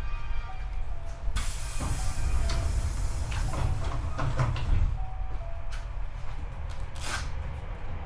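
Cabin running sound of a Hankyu 8300 series commuter train heard from the floor above a bogie: a steady low rumble with scattered clicks, knocks and bursts of hiss. There are a few short tones from the motors.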